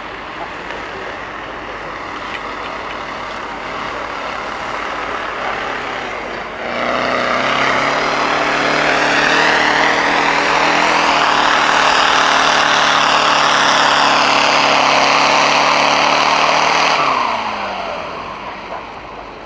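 Off-road 4x4's engine held hard at high, steady revs for about ten seconds, starting suddenly, then the revs falling away near the end. Before that there is a fainter, more distant engine noise.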